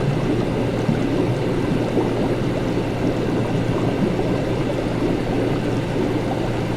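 Laboratory ambience: liquid bubbling and gurgling steadily over a constant low equipment hum.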